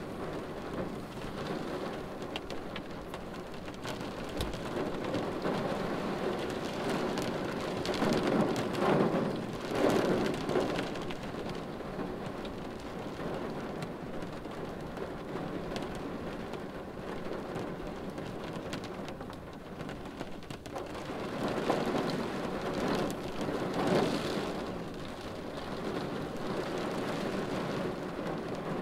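Steady rain falling on a car windshield, heard from inside the car, with two louder swells, about eight to eleven seconds in and again about twenty-two to twenty-five seconds in.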